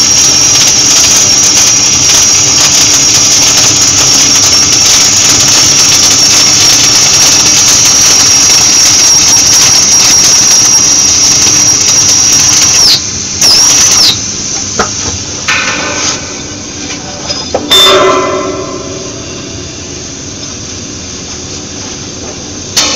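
Gas-shielded flux-cored arc welding: the arc runs steadily with a high whine for about thirteen seconds, then stops, strikes again briefly and cuts out. A few clicks and a sharp knock follow over a quieter hum.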